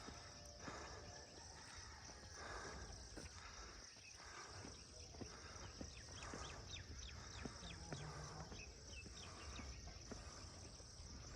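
Faint outdoor ambience: a steady high insect buzz from crickets or cicadas, with a string of short, high chirps about two-thirds of the way through.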